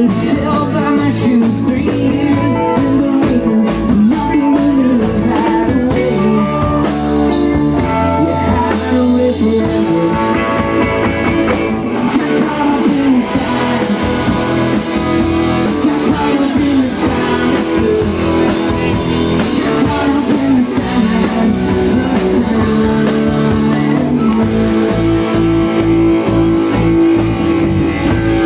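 A live rock band playing a blues-rock number: guitar over bass and drums with a steady beat.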